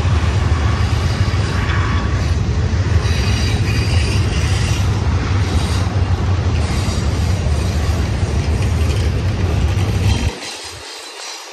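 Double-stack container train's well cars rolling past: a steady rumble of steel wheels on rail with a faint high wheel squeal. The deep low rumble cuts off suddenly near the end, leaving quieter rolling noise.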